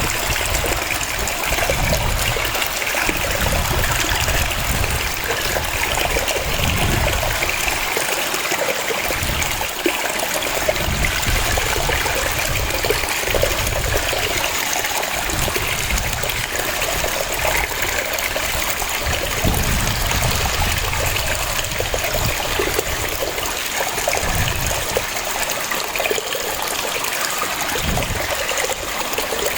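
Waterfall cascading, a steady rush of falling water with a low rumble that swells and fades every second or two.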